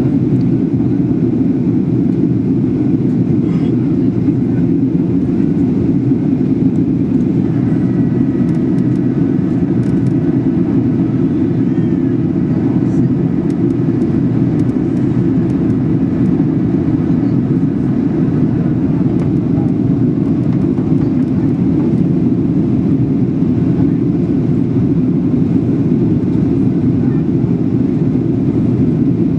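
Steady roar of a Boeing 737-800's CFM56-7B engines and rushing airflow heard inside the passenger cabin. A faint high whine of several thin tones sits over it through the middle of the stretch.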